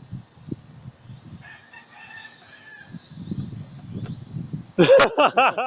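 Small drone's propellers whining at a steady high pitch, with wind rumbling on the microphone. Near the end comes a loud burst of rapid, high-pitched vocal sounds, the loudest thing here.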